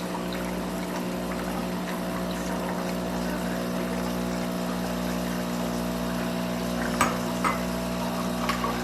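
A De'Longhi Dinamica Plus espresso machine's pump running steadily with a constant hum, pushing lukewarm water through a newly fitted water filter and pouring it into a cup during the filter-rinse cycle. A light click about seven seconds in.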